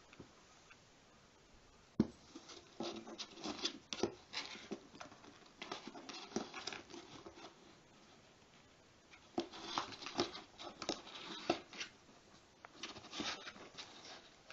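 Cats scuffling and pawing: irregular scratches, taps and rustles of claws and paws on a surface, in two spells with a short pause between.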